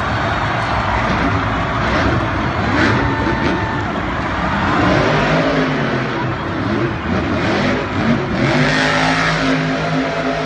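Monster truck engine running loud, settling into a steady note about halfway through.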